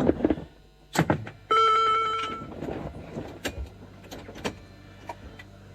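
A single electronic beep, one steady tone lasting about a second, followed by a few sharp clicks.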